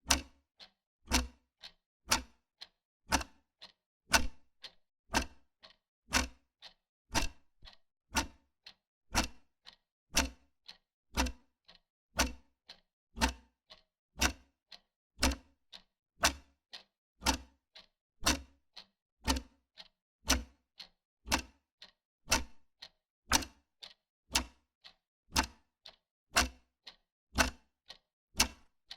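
Wall clock ticking steadily, about one tick a second with a softer click between.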